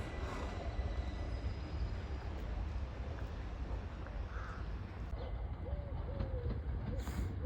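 Low steady rumble of a train at the station. A bird gives a few short calls in the last two seconds.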